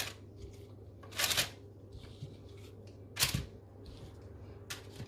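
Marinated sweet potato slices being arranged by hand for baking: two short, soft rustling handling noises about two seconds apart, and a fainter one near the end.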